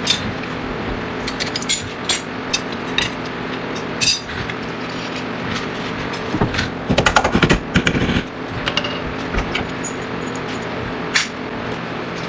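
Metal clinks and knocks of tools working on a car's front suspension over a steady background hum, with a short spell of rapid impacts about seven seconds in.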